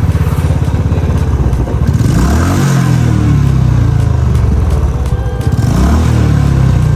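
Royal Enfield Classic 350 single-cylinder engine thumping steadily through its exhaust while riding; the revs drop and climb back twice, as on a gear change.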